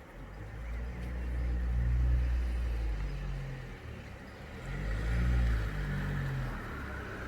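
Thunder rolling in a deep, low rumble that swells twice, peaking about two seconds in and again about five seconds in.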